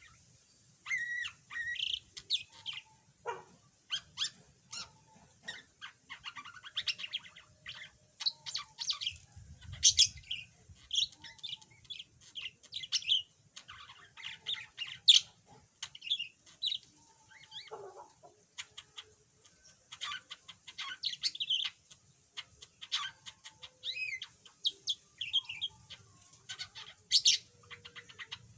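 Budgerigar chattering: a steady run of short, quick chirps and warbled notes with brief pauses between phrases.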